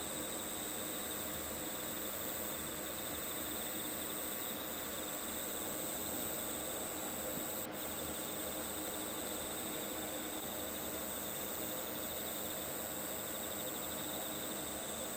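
Steady chorus of chirring insects, a high, faintly pulsing trill that holds without a break. A single sharp click sounds about halfway through.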